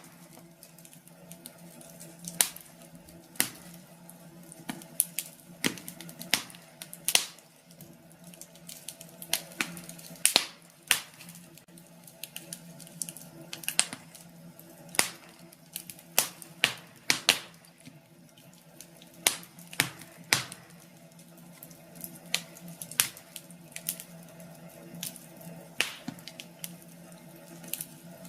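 Wood fire crackling in a fireplace: irregular sharp pops and snaps, some in quick clusters, over a faint steady hum.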